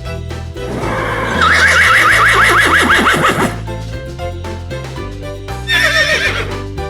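Horse whinnying over background music: a long, quavering neigh about a second in, and a shorter whinny near the end.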